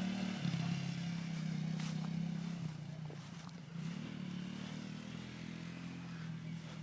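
1992 Suzuki QuadRunner 300 ATV engine running as it is ridden; the engine note falls off and quietens about three seconds in, then picks back up a second later.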